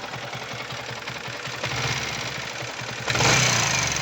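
Yamaha R15 V3's 155 cc single-cylinder engine idling, blipped up a little about halfway through, then revved sharply near the end and easing back.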